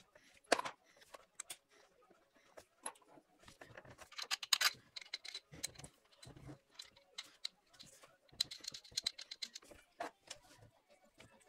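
Irregular clicking and clinking of tools and parts being handled, with a few heavier knocks in the middle.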